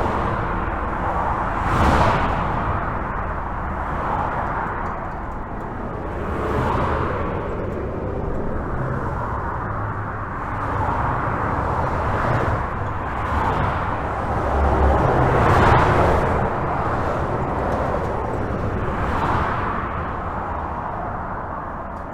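Highway traffic heard from beneath a bridge: a continuous tyre and engine rush, with individual vehicles swelling past every few seconds.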